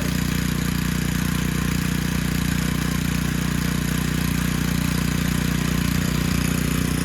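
Pressure washer running steadily, blasting water through the clogged cooling passages of a Triumph TR6 cylinder head to flush out sludge.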